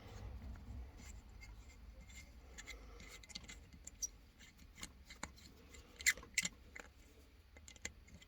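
Faint clicks and scrapes of hand tools working on a lawnmower, with a few sharper metallic clicks a little past the middle.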